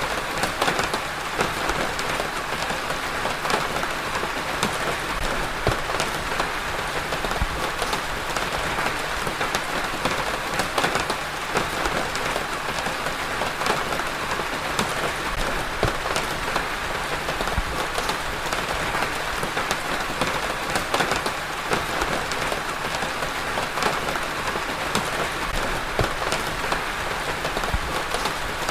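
Steady rain falling, a dense even patter of many small drop impacts.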